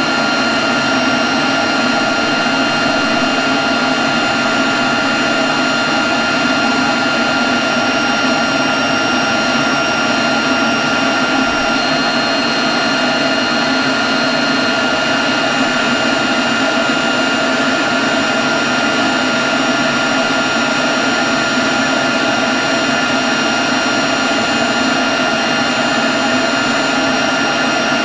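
Leaf blower running steadily at a constant speed: an even rush of air with a steady high whine over it.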